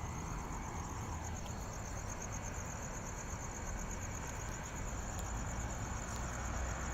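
Insects chirring steadily in a high, evenly pulsing trill, over a low steady background rumble.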